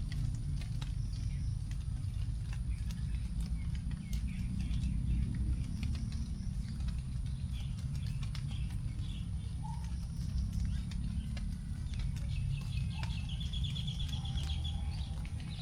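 Leftover raindrops dripping onto forest leaves as scattered ticks, over a steady low rumble. Birds call now and then, with a fast, high trill late on.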